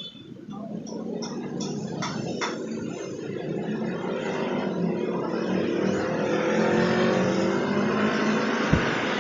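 A motor vehicle's engine running close by, growing louder over the first few seconds and then holding steady. A few short sunbird chirps come through at the start, and there is a single soft thump near the end.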